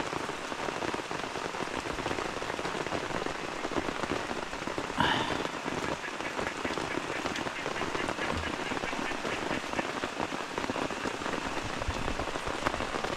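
Heavy rain falling steadily on a tent, a dense patter of drops. A brief pitched sound stands out about five seconds in.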